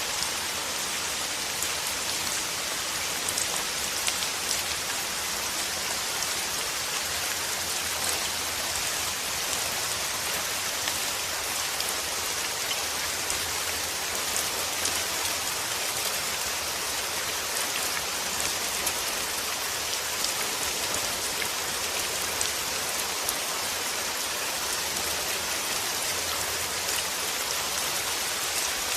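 Steady rain played as a white-noise track: an even hiss, strongest in the upper range, scattered with many small drop-like ticks.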